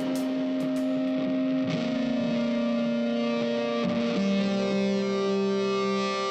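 Background music: a distorted electric guitar holding long sustained notes, moving to a lower note about 1.7 s in and again about 4 s in.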